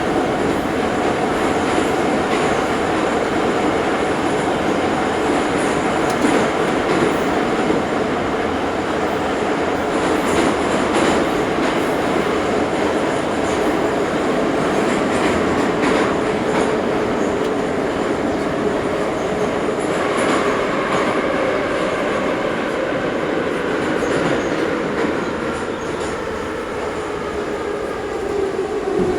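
Ezh3 metro train running through a tunnel, heard inside the car: steady rumble and wheel noise with a motor whine whose pitch falls slowly near the end as the train slows. Occasional clacks come from the rail joints.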